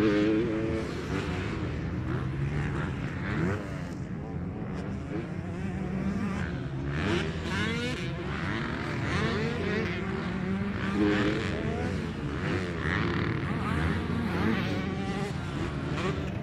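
Several motocross bikes racing on the track, their engines revving up and down one over another as they accelerate and shift.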